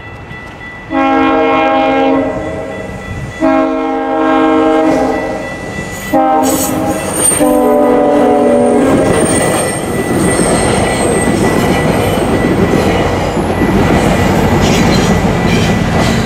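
GO Transit commuter train sounding its horn for a level crossing in the standard long, long, short, long pattern. About nine seconds in, the loud clatter and rumble of the train's wheels on the rails takes over as it passes through the crossing. A level-crossing bell rings underneath.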